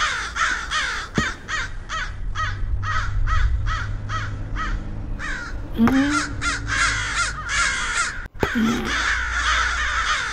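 Birds calling over and over, a few short harsh calls a second, over a steady low hum.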